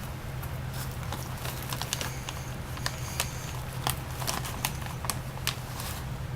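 Crisp kale chips being chewed: faint, irregular crunchy clicks over a steady low hum.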